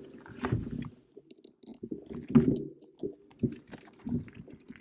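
Irregular low thuds, knocks and rattles, with a brief lull about a second in, typical of a mountain bike jolting over a rough forest trail.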